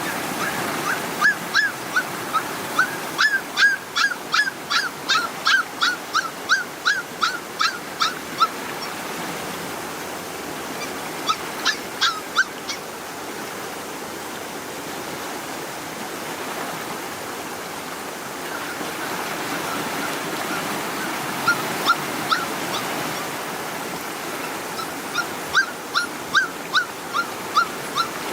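Puppies yelping and whimpering in runs of short high cries, about three a second, in several bouts with pauses between, over the steady rush of flowing water.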